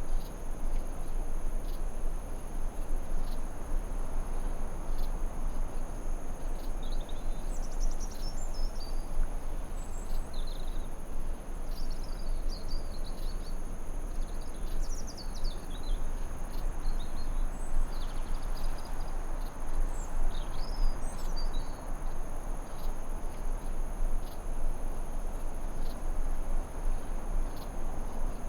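Forest ambience: a steady high insect trill over an even background hiss, with birds chirping in short bursts through the middle.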